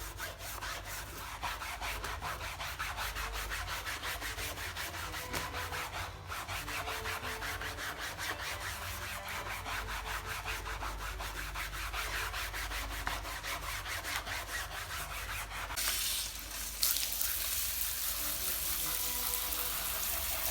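A wet, soapy mousepad being scrubbed with quick, even back-and-forth strokes. About three-quarters of the way through, the scrubbing stops and running water starts, hissing steadily as the pad is rinsed.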